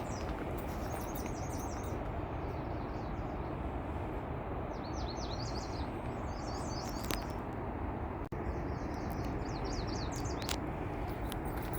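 Songbirds singing short, quick chirping phrases several times over, above a steady low background rumble with a few faint clicks.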